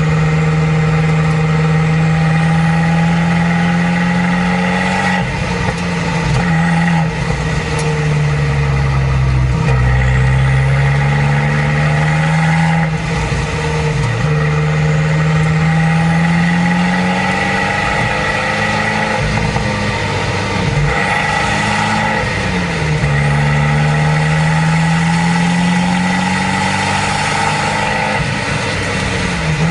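Abarth 595 Competizione's turbocharged four-cylinder with a Record Monza exhaust, running while driving. Its note climbs slowly and then drops back several times, as with changes of speed and gear.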